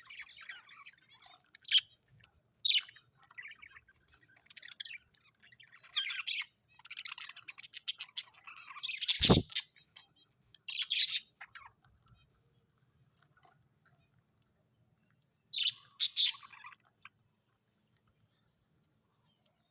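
Birds chirping and calling in short, irregular bursts, with a loud, sharp call about nine seconds in and another about eleven seconds in. The calls stop for a few seconds, then start again briefly.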